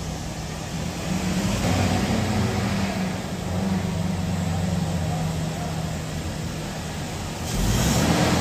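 Petrol engine of a Toyota Hilux idling steadily just after a carbon-cleaning tune-up, getting a little louder about a second in and again near the end.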